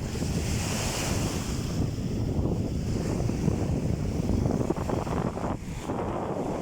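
Sea waves breaking and washing on a sandy beach, with wind blowing across the microphone.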